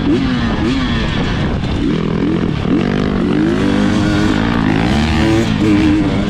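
Dirt bike engine running hard on a trail ride, its pitch rising and falling over and over as the throttle is opened and closed.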